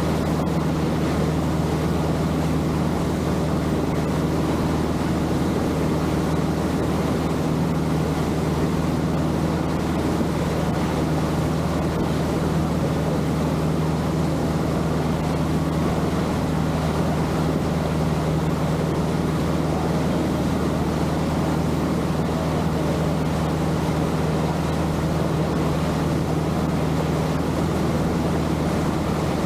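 Longtail boat engine running steadily at constant speed, a low even hum with water and wind noise over it.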